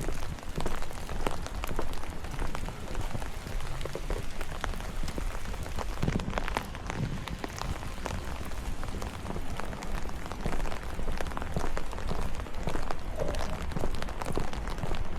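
Rain falling, with many separate drops ticking sharply on surfaces close by over a steady low rumble.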